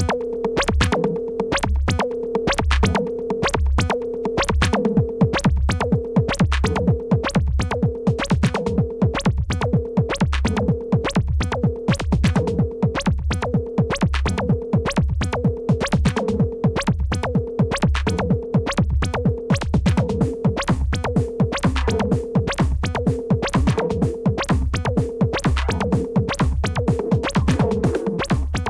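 Electronic techno track built on a drum machine: fast, steady percussion hits over a repeating synth pattern and a pulsing low bass.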